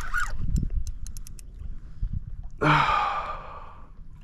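A man lets out a long, heavy sigh about two-thirds of the way through, while straining against a big fish on the line. A few faint clicks come earlier.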